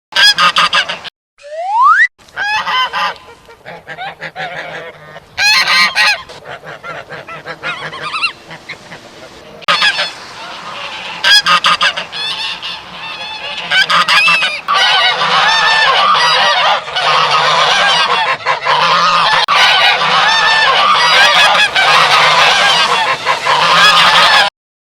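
Geese honking: separate loud honks at first, then from about ten seconds in a dense, continuous clamour of overlapping honks that cuts off just before the end.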